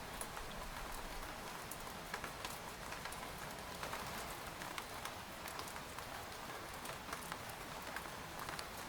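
Steady rain with individual drops ticking sharply and irregularly on a tent's fabric.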